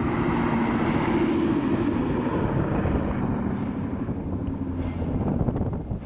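2013 Shelby GT500's supercharged V8 through Borla long-tube headers, X-pipe and S-Type mufflers with no catalytic converters, driving past at about 40 mph: the exhaust note is loudest in the first couple of seconds, then fades and drops slightly in pitch as the car moves away. Wind buffets the microphone throughout.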